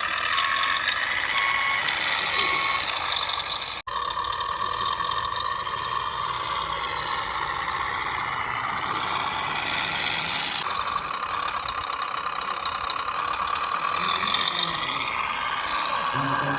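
Radio-controlled 6x6 truck running, its reverse beeper sounding several evenly spaced beeps in the first few seconds. After a sudden break about four seconds in, a steady motor and engine sound follows, with a whine that rises and falls in pitch.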